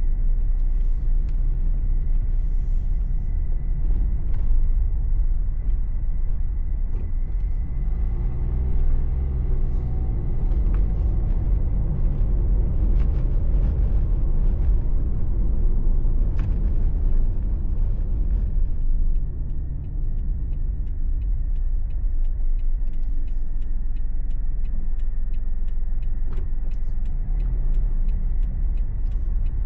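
Car engine and tyre road noise heard from inside the cabin while driving: a steady low rumble. About eight seconds in the engine note rises as the car picks up speed, then the level eases slightly near nineteen seconds.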